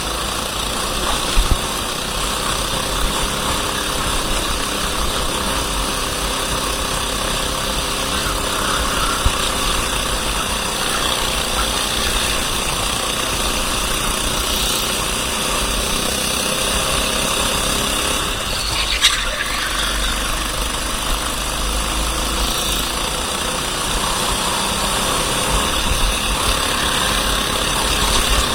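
Racing kart engine running under load, its pitch rising and falling slowly as the throttle opens and closes through corners.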